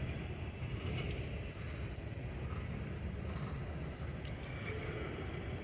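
Freight train crawling slowly past, its cars making a steady low rumble on the rails, with a few faint squeaks.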